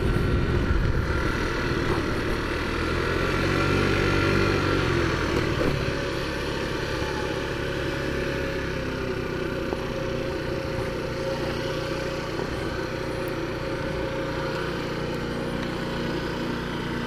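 Taotao 50cc four-stroke scooter engine running at low speed while parking: the pitch rises and falls over the first few seconds, then settles into a steady idle.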